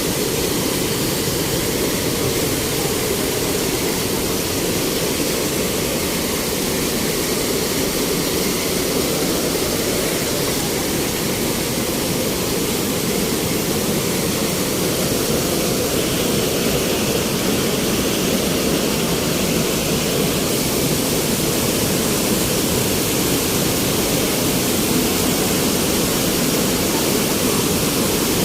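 Waterfall pouring: a steady, loud rush of falling water that does not let up.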